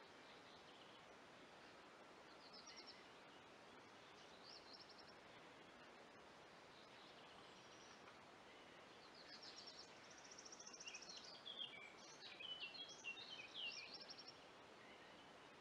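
Faint songbird singing in woodland: a few short trilled phrases, then a busier run of varied song for several seconds near the end, over a steady low hiss.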